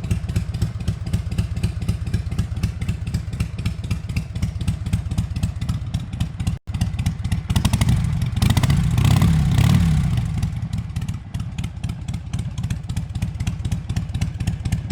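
Harley-Davidson V-twin engine idling with a steady run of firing pulses, revved up once about eight seconds in and settling back to idle.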